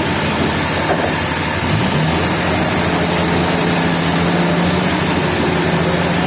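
Sawmill machinery running, with a steady engine note that climbs in pitch about two seconds in and then holds, over a constant noisy whir.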